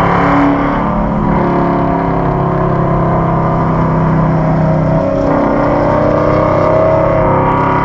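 2015 Mustang GT's V8 engine and tyre noise heard from inside the cabin while cruising at about 65 mph on the track, with the engine note changing about five seconds in.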